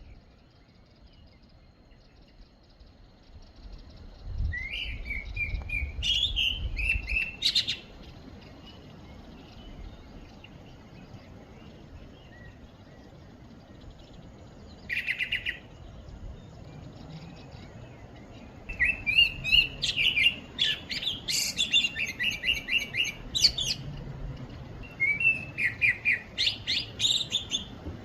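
Small birds chirping in quick runs of rapid, repeated notes. There is one run about five seconds in, a brief one around fifteen seconds, and nearly continuous chirping through the last nine seconds.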